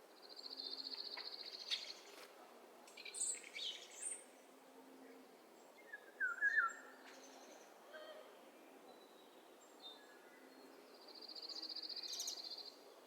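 Songbirds singing: a fast, high trill about a second and a half long near the start, the same trill again near the end, and short chirps and whistled notes in between.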